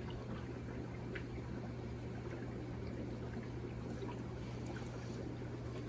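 Aquarium filter running: a steady low hum with faint trickling water.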